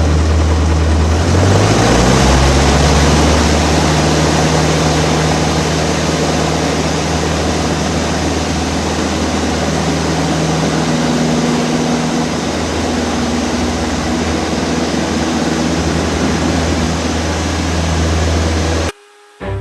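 Cessna light aircraft's piston engine and propeller running loud. The engine note rises about a second in, then holds steady, and the sound cuts off abruptly near the end.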